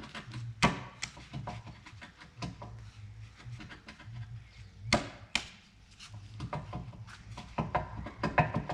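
Three sharp metal knocks, about a second in and twice close together past the halfway point, with small clinks and rattles of hand tools and steel parts being handled between them.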